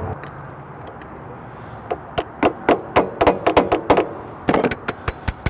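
A run of sharp metallic taps and knocks, as from a hand tool striking metal during motorcycle repair work. They start about two seconds in, come a few per second and get quicker near the end, some with a brief high ring.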